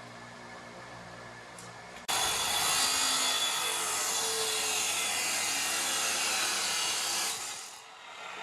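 A handheld power tool switches on abruptly about two seconds in and runs with a loud, high-pitched hissing noise for about five seconds, then winds down and stops.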